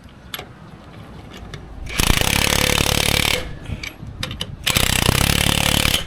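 A power tool in a repair shop runs in two short bursts of about a second and a half each, with a rapid hammering rattle, and light clicks and clatter of tools between them.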